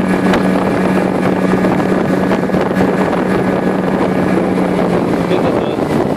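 Nissan Marine 9.8 hp outboard motor being run in at high throttle, a steady engine drone over rushing wind and water as the boat moves fast. The engine note eases off near the end.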